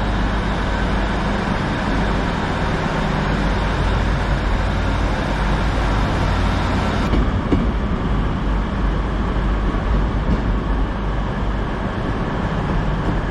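Train running at a station platform: a steady rumble with a low engine drone under it.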